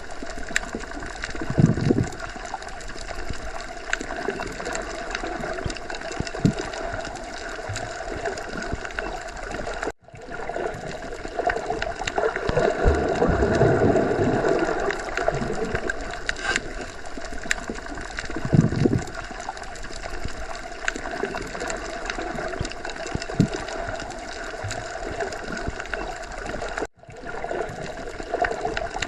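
Underwater sea ambience: a steady wash of water noise with gurgling and occasional low swells. It drops out briefly twice, about ten seconds in and near the end.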